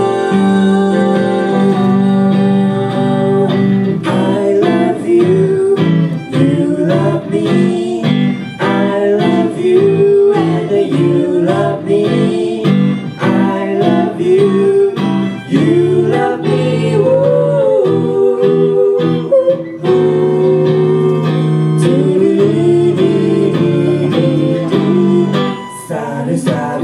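Unplugged live band music: strummed acoustic guitar chords under a bending melody line, playing without lyrics between the song's sung verses.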